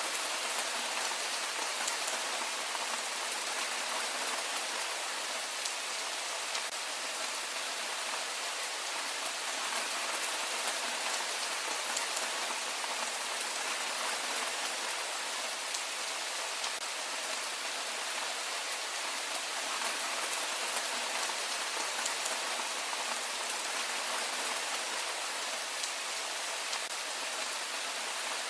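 Heavy rain falling steadily: a dense, even hiss of rain with fine drop ticks through it.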